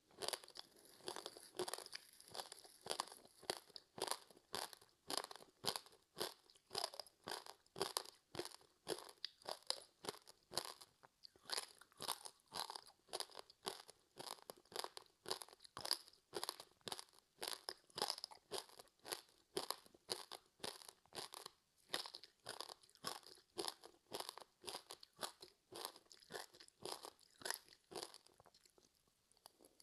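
Close-up chewing of crispy seaweed-wrapped rice: a rapid, continuous run of crisp crunches, several a second.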